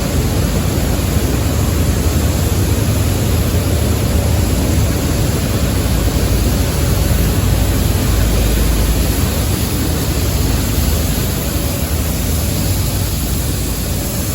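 Loud, steady machinery din with a deep rumble underneath, from a ship's self-unloading gear running during unloading.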